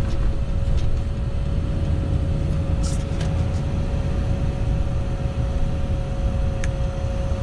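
Steady low rumble of a car driving, engine and road noise as heard from inside, with a thin steady whine over it and a few faint clicks.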